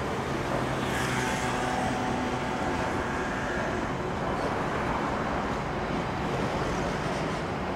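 Freight train rolling past with a steady rumble and rattle. A few faint whining tones come in about a second in and fade by about four seconds.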